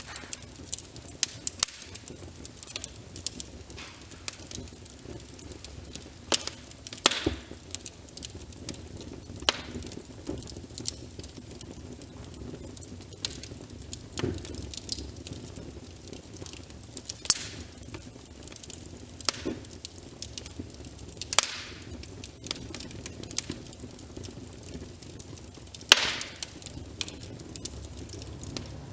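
Wood fire crackling with frequent sharp snaps and pops at irregular intervals, a handful much louder than the rest, over a steady hiss of rain.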